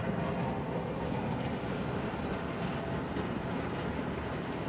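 Packaged air-conditioning unit running steadily, a constant even mechanical drone. Its three-phase blower motor has just been rewired to spin the right way and is now pulling proper amps.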